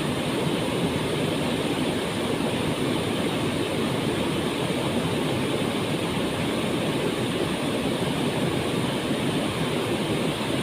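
Waterfall: water falling and splashing in a steady, unbroken rush, strongest in the low and middle range.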